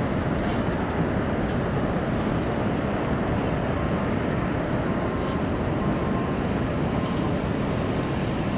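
Steady jet engine noise from an airliner.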